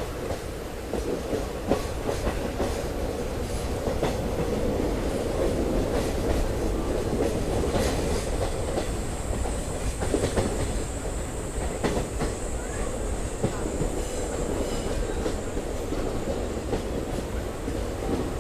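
Express passenger train running on the rails, heard from on board: a steady rumble with the clickety-clack of wheels over rail joints. A faint high whine joins about halfway through.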